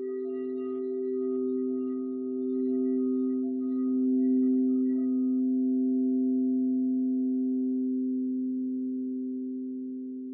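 Singing bowls ringing: two steady low tones held together, swelling gently and then slowly fading near the end as the higher overtones die away.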